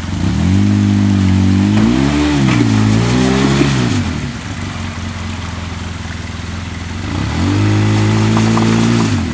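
Polaris RZR 800 side-by-side's engine revving up from idle as it crawls over creek-bed rocks: a longer pull of about four seconds whose pitch dips and climbs again, a drop back to idle, then a second shorter rev near the end.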